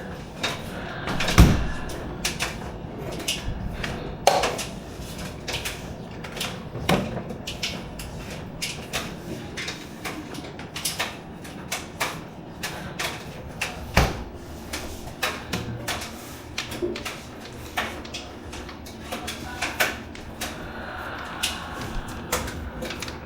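Miele automatic washing machine running, with irregular knocks and clunks from the turning drum and a few heavier thuds: about a second in, around four, around seven and around fourteen seconds in.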